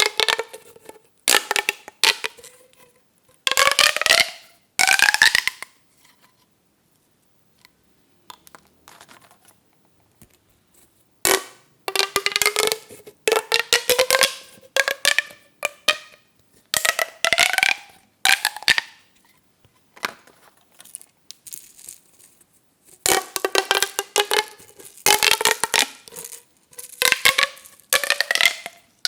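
Plastic pop tubes being pulled out and pushed back: each stroke is a quick run of clicks as the ribs snap, with a tone that rises in pitch over a second or two. The strokes come in bursts, with a quieter spell of scattered clicks about a third of the way in.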